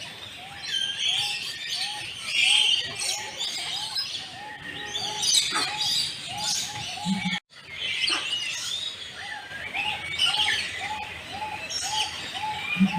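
Many birds chirping and calling together, with one short arched call repeated about twice a second under the higher chirps. The sound drops out for an instant about seven and a half seconds in, then the calling carries on.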